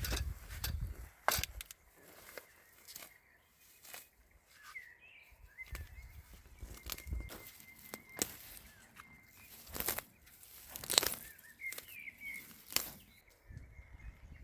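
A few short, wavering bird chirps over scattered clicks and knocks from handling gear, with brief low rumbles.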